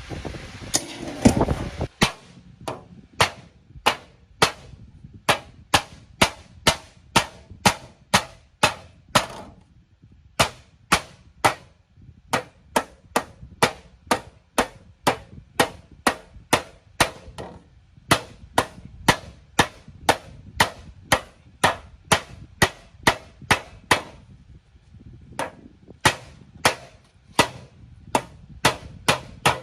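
A hammer striking repeatedly, about two blows a second in steady runs broken by short pauses, each blow sharp with a brief ring.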